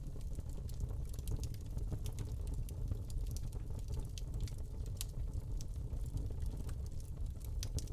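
Wood fire burning in a fireplace: a steady low rumble of flames with frequent small, irregular crackles and pops from the burning log.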